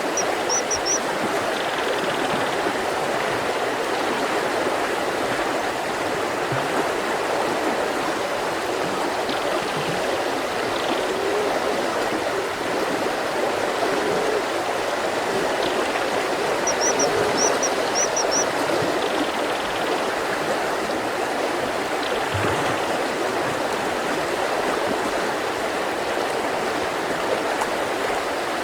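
Mountain river rushing steadily over rocks. A bird gives short high chirps in quick groups, once right at the start and again about seventeen seconds in.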